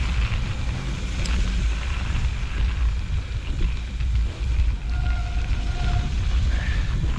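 Wind rumbling on the camera microphone with tyre and trail noise from a mountain bike being ridden. Around five seconds in, a faint steady tone sounds for about a second.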